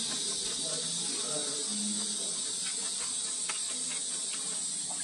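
A person chewing a mouthful of fried rice, with soft mouth sounds and a few faint clicks, under a steady high hiss that is the loudest thing heard.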